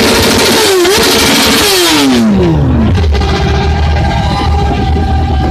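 Triumph Daytona 675R's three-cylinder engine revved loud and held at high revs with a brief dip, then dropping steadily back to a low idle about three seconds in.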